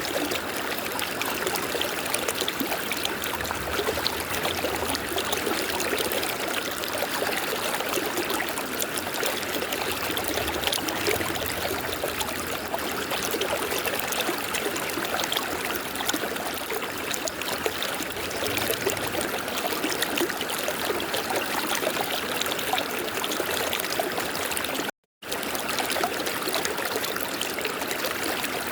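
River water flowing, a steady rush and trickle that cuts out completely for a split second near the end before resuming.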